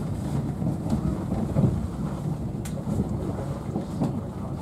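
Steady low rumble inside an Intercity 125 (HST) passenger coach as the train runs along the track, with a couple of sharp clicks.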